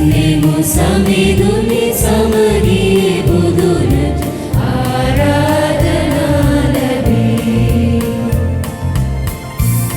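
A parish choir singing a hymn in several voices, over instrumental accompaniment with a steady bass beat.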